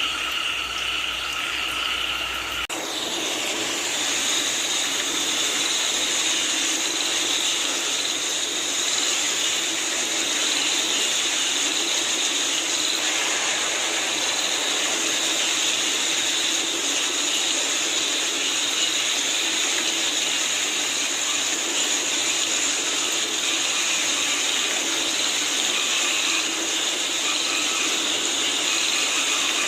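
Steady rain with frogs calling in a continuous chorus. About three seconds in, the sound cuts abruptly to a denser, hissier stretch of rain and chorus.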